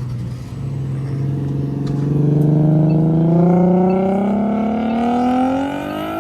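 A car engine accelerating hard under a full-throttle pull, its pitch rising steadily for several seconds and peaking in loudness about halfway through; onlookers take the car for a turbocharged one.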